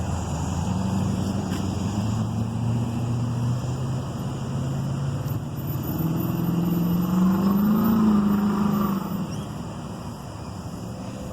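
Road traffic: car engines and tyres passing by, with one vehicle passing loudest about eight seconds in as its engine note rises and falls.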